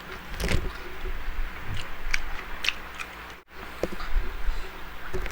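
Close-miked eating: chewing and lip smacking with irregular small clicks and crunches. The sound drops out for an instant about three and a half seconds in.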